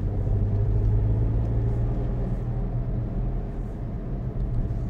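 Ford Puma's 1.0 three-cylinder turbo petrol engine pulling steadily in third gear, with tyre and road noise, heard from inside the cabin.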